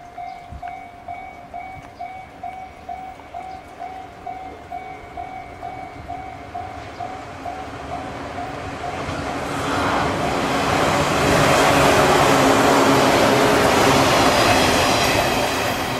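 Level-crossing warning bell ringing about twice a second, stopping about seven seconds in. Then a Shinano Railway 169 series three-car electric train comes close and passes, its wheel and running noise growing to a loud, steady rush from about ten seconds in.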